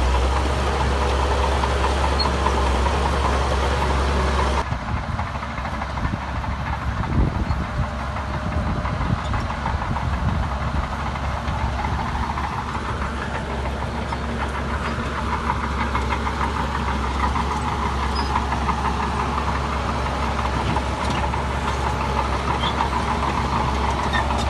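Heavy diesel engine of earthmoving machinery running steadily. The engine sound changes abruptly about four and a half seconds in.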